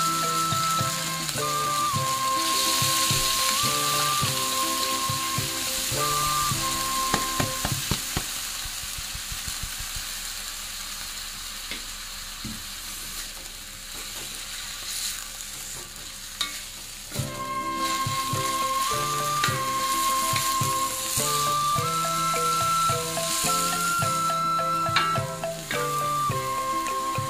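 Papaya flowers sizzling as they stir-fry in a wok, with a wooden spatula stirring and a few knocks of the spatula against the pan. Background music plays over the first third and the last third and drops out in the middle, leaving the hiss of frying.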